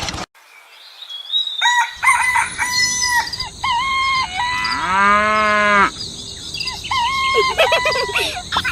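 Chickens clucking and a rooster crowing: a series of pitched farm-bird calls, with one longer arched call about halfway through.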